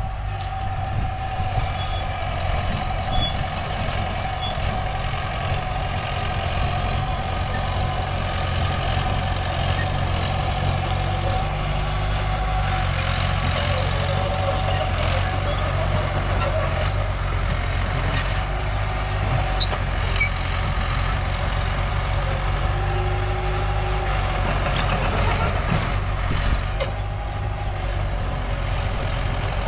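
Diesel engines of a mini bulldozer and a dump truck running steadily, a continuous rumble with a steady mid-pitched whine over it.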